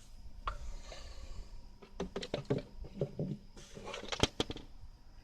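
Irregular clicks and knocks of an oil funnel and tools being handled, with a sharp pair of clicks near the end.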